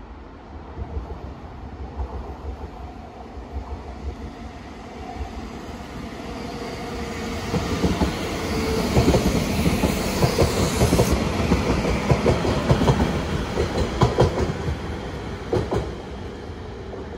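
Passenger train running along the track, its wheels clicking over the rail joints; it grows louder through the first half, is loudest for several seconds in the middle, and eases off near the end.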